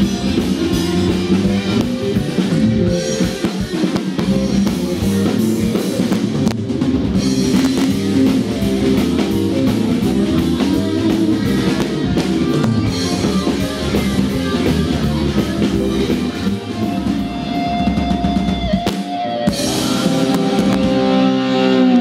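Live rock band playing: drum kit, electric guitar and bass. Near the end the drums drop out and sustained notes ring on.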